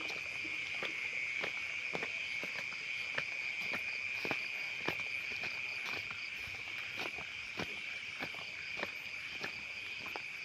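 A steady, high chirring chorus of night insects such as crickets, with regular footsteps about two a second on the path.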